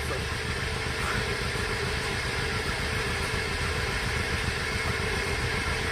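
A machine running steadily, giving an even mechanical hum and noise.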